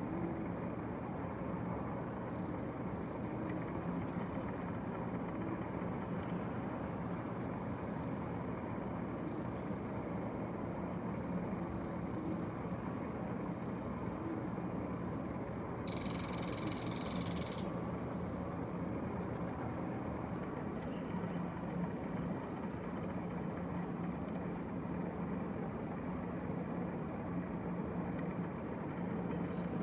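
Strong wind blowing steadily, with faint short high chirps scattered throughout. A brief loud hiss lasting under two seconds comes about halfway through.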